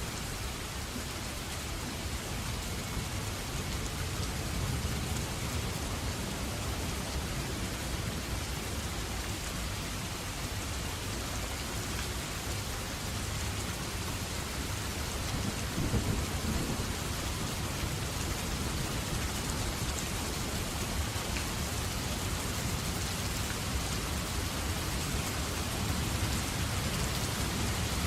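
Steady rain falling, with low rolling thunder underneath; a louder rumble swells about halfway through and another builds near the end.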